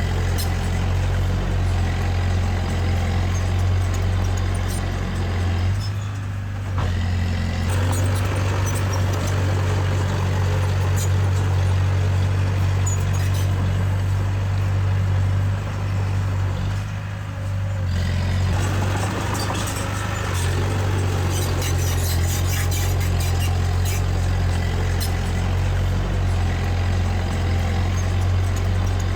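Heavy diesel earthmoving machinery engine running steadily, with a deep hum that drops back briefly twice, about six and about seventeen seconds in.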